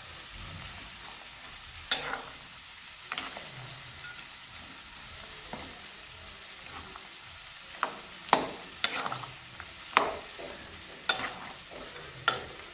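Mutton curry frying with a steady sizzle while it is stirred in the pan. The stirring spoon scrapes and knocks sharply against the pan about eight times, most of them in the second half.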